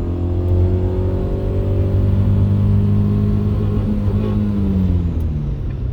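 A car engine running at low revs close by, its note rising slowly over the first few seconds and then easing back down near the end.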